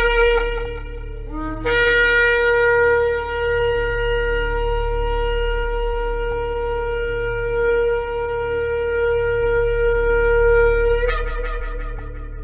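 Shofar blasts: a blast ends just after the start, then after a brief rising note comes one long steady blast of about nine seconds that jumps up in pitch at its end before breaking off. A steady low hum runs underneath.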